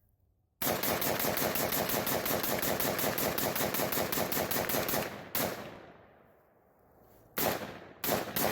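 Rapid fire from a P90-type 5.7×28mm gun: a fast string of shots, about seven a second, starting half a second in and lasting some four and a half seconds, then two single shots about two seconds apart, and another fast string beginning near the end.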